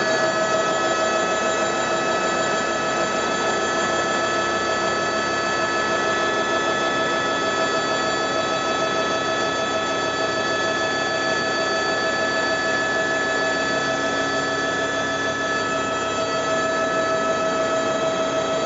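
Helicopter turbine engine and rotors running steadily in flight: a constant high whine over a dense mechanical drone, with no change in pitch or level.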